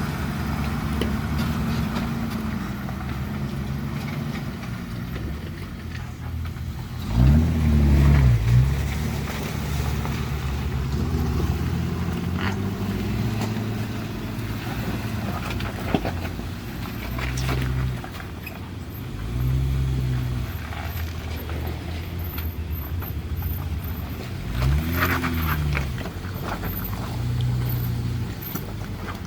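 Toyota Tacoma pickup's engine running at low trail speed, its pitch stepping up and down with throttle. The engine revs up and falls back twice, about a quarter of the way in and again near the end.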